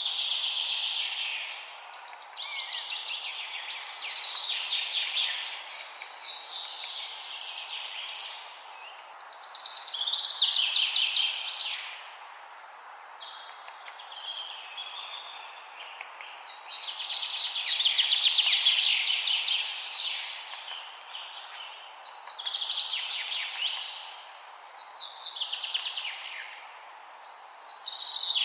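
A wild songbird singing a string of trilled phrases, each a second or three long and repeated every few seconds, over a steady background hiss.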